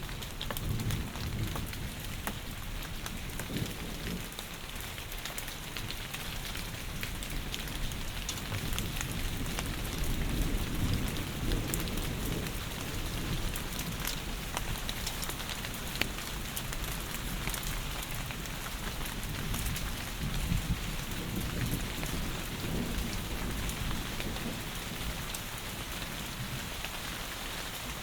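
Heavy rain falling steadily, a dense hiss of drops. Low rumbles of thunder swell and fade now and then underneath it.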